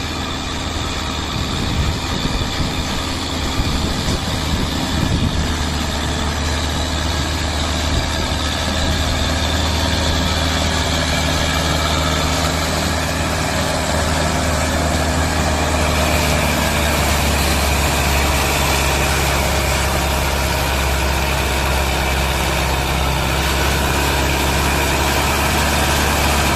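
Mahindra tractor's diesel engine running steadily; its note shifts slightly about sixteen seconds in.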